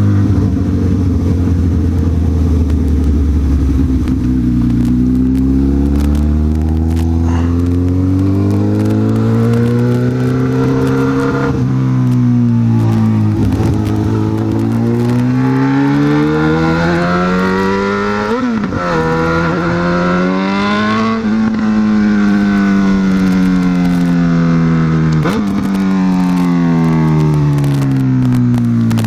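Honda CB1000R's inline-four engine riding under way, the revs climbing and falling several times as it accelerates, changes gear and eases off.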